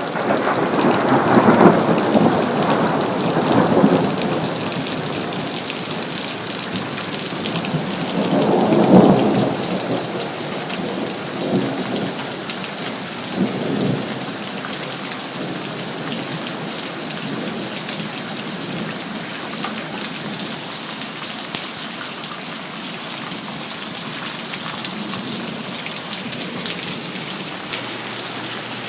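Steady rain with thunder: a long rolling peal in the first few seconds and another around nine seconds in, two smaller rumbles shortly after, then rain alone.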